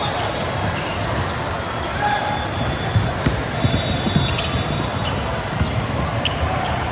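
Basketball bouncing on a hardwood gym floor during a game, with a cluster of bounces about three to four seconds in, and a few short sneaker squeaks. All of it sits over a steady background din of voices in the gym.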